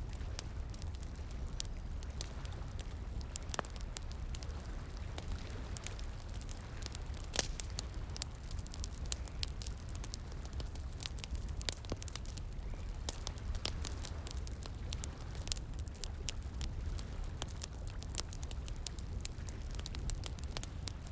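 Bonfire crackling, with frequent irregular sharp pops and snaps over a steady low rumble, with running water underneath.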